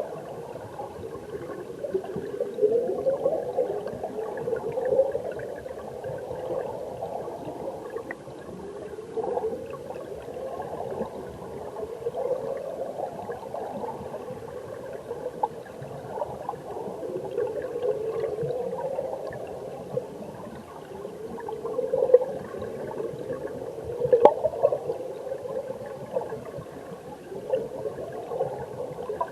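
Mountain stream water heard from a camera under the surface: a muffled rushing and gurgling, with a swell that rises in pitch every two or three seconds and scattered sharp clicks.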